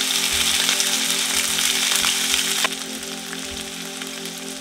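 Crushed green chillies and ginger sizzling in hot oil in a kadai, with the whole spices tempered in it. The sizzle drops noticeably in level a little past halfway.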